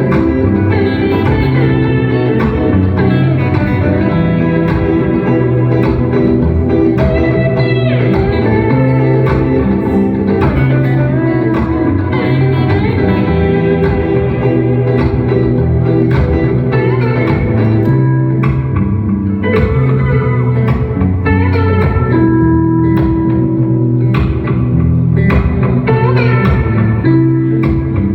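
Live instrumental guitar music from a guitar duo: a plucked guitar melody of ringing, sustained notes over a steady low accompaniment.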